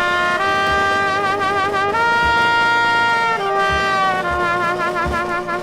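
Dixieland jazz band playing a slow hymn tune: brass holds long notes with vibrato that move up and down in steps, over a few soft low beats.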